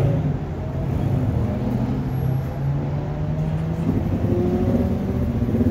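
Car engines running at low speed, a steady low hum, with one engine's pitch beginning to rise near the end.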